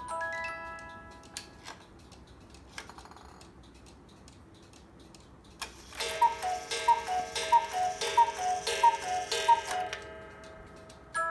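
Hönes chalet cuckoo clock striking: the last few music-box notes fade, the movement ticks quietly for a few seconds, then the cuckoo calls six times from its two bellows pipes, a higher note followed by a lower one each time.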